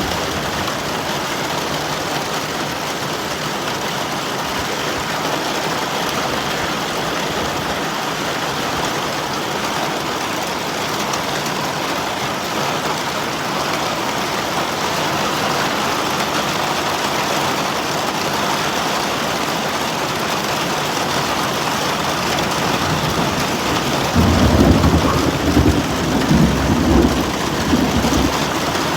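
Heavy rain pouring steadily in a hiss. About 24 seconds in, a low rumble of thunder rolls in for several seconds, the loudest part.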